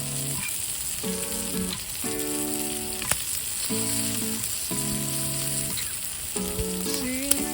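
Steak sizzling on a hot iron griddle plate, a steady hiss with a few sharp pops. Soft background music plays over it in held chords.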